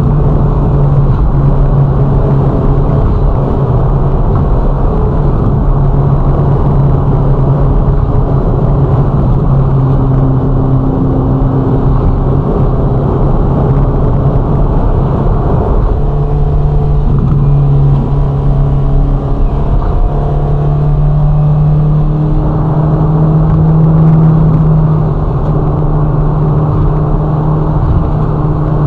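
Ferrari Roma's twin-turbo V8 running at steady cruising revs, its note holding nearly level with small shifts in pitch. It swells a little in loudness about three-quarters of the way through, then eases back.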